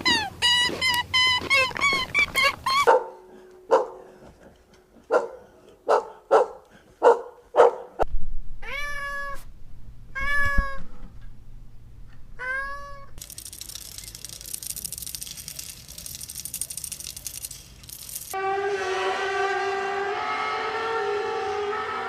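A string of animal calls cut together. In the middle a domestic cat meows three times, each meow rising and falling. It comes after a run of rapid repeated calls and short sharp calls, and is followed by a long drawn-out call near the end.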